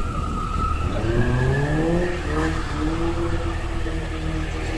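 Caterham sports car engine revving up about a second in, its pitch climbing, then holding steady at higher revs.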